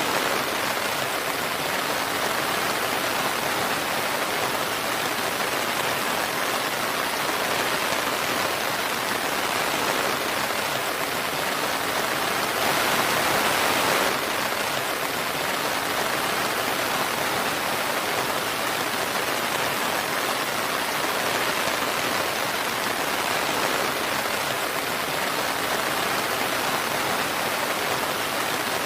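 Steady, dense rainfall: an even hiss of rain on surfaces, swelling slightly louder for about a second and a half near the middle.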